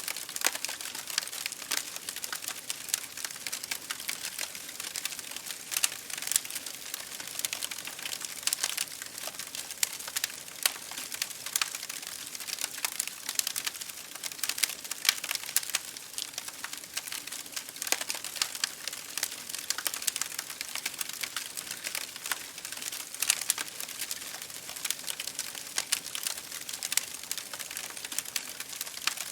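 Campfire crackling: a steady hiss of burning wood with many small irregular pops and snaps throughout.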